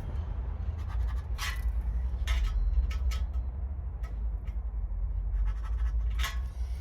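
A handful of short scratching strokes, as of a marker or scribe and straight edge on a steel sheet, over a steady low hum.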